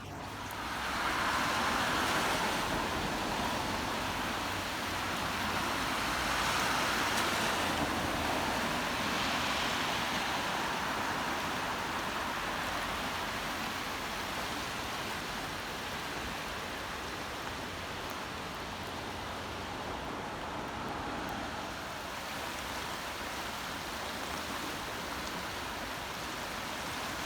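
Steady wash of heavy rain and running water, swelling louder twice in the first ten seconds, then holding level.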